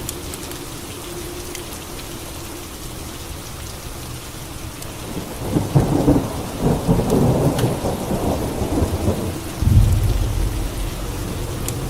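Steady rain falling, with a thunderclap about halfway through that crackles and rolls for a few seconds, then gives way to a deep low rumble near the end.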